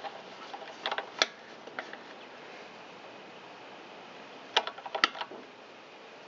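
Sharp metal clicks and clinks of a wrench snugging down the carburetor float-bowl nut: a short cluster about a second in, then two louder clicks near the end.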